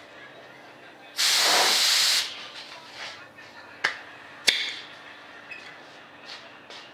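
A one-second burst of primer spray, a loud hiss, as a light mist coat goes on. Two sharp clicks follow a couple of seconds later.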